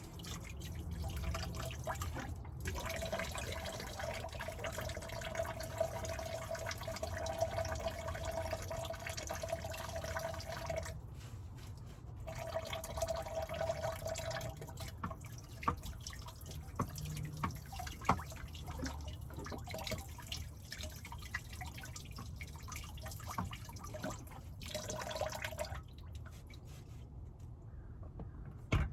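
Dishes being washed by hand: water trickles and drips into a small sink as pots and utensils are rinsed and scrubbed. The stream stops and starts several times, with a few sharp knocks of dishware near the middle.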